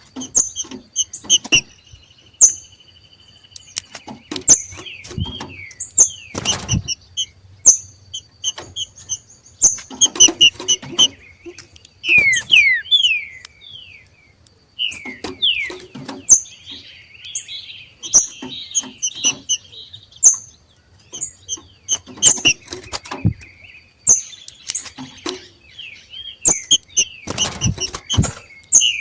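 Green-winged saltators (trinca-ferro) giving their excited 'macheado' chatter: short sharp high chips mixed with quick downward-slurred whistled notes, repeated in bouts. A few louder rustling knocks break in, one about a quarter in and another near the end.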